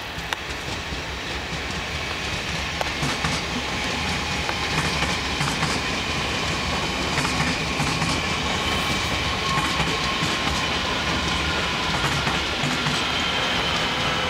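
NS VIRM double-deck electric train passing close by, its wheels clattering over rail joints and points with a steady high whine on top. It grows louder over the first few seconds, then holds steady.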